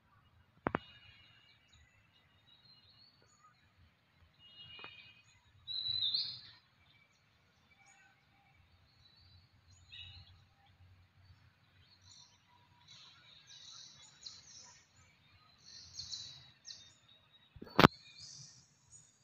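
Birds chirping and calling in short, scattered notes, with two sharp clicks, one about a second in and a louder one near the end.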